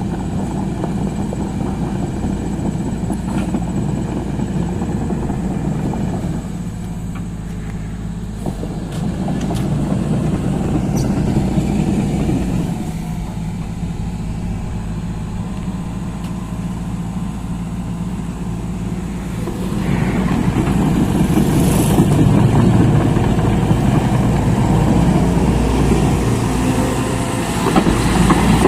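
SANY SY215C excavator's diesel engine running steadily, growing louder for a couple of seconds about ten seconds in and again through the last third.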